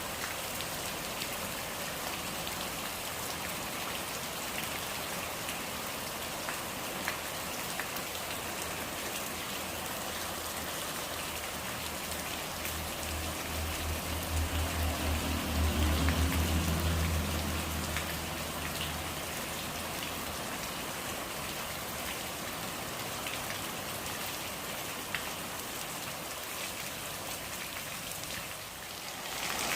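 Steady rain falling, with individual drops ticking sharply close by. About halfway through, a low rumble swells for several seconds and fades again.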